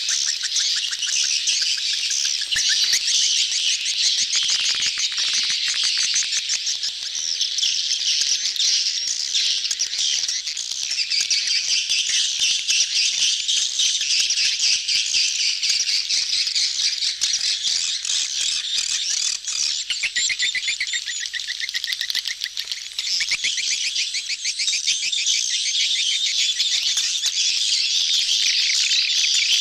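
A crowd of edible-nest swiftlets (walet) chattering, many rapid high trills overlapping with no pause. It is a swiftlet-house lure call of a colony in mating excitement.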